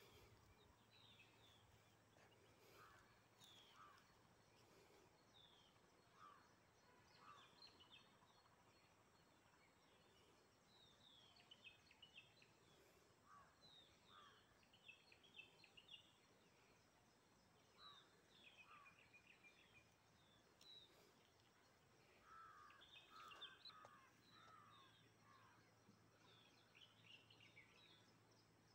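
Faint wild birdsong: many short chirping calls from several birds recurring throughout, thickest a little before the end, over a quiet outdoor background.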